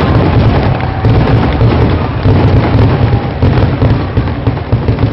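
Fireworks going off in a dense, unbroken run of bangs and crackles with a heavy low rumble, loud throughout.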